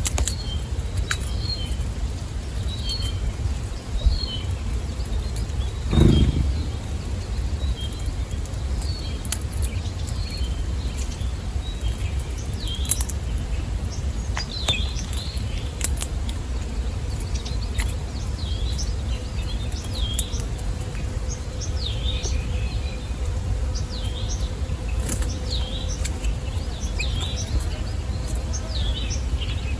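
Small songbirds chirping with many short, repeated calls that grow busier in the second half, over a steady low rumble. Scattered sharp clicks and one heavier thump about six seconds in.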